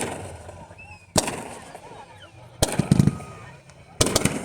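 Aerial fireworks bursting: a sharp bang at the start and another about a second in, a cluster of bangs with a deep boom near the middle, and a crackling run of reports near the end.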